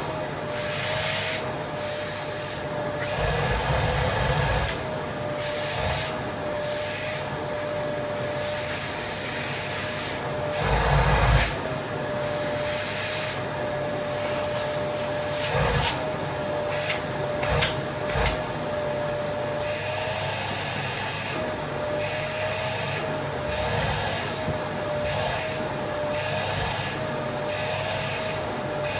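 Vacuum cleaner running with a steady motor whine that wavers slightly in pitch, broken by several short louder bursts and clicks.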